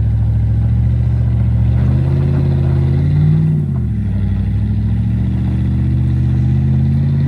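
Car engine revving in long pulls, its pitch climbing, then dropping off about three and a half seconds in, climbing again and falling away near the end.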